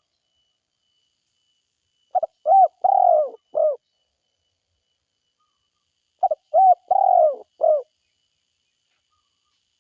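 Spotted dove (tekukur) cooing: two calls about four seconds apart, each a quick phrase of four or five hoarse, arched coos, the longest coo near the middle.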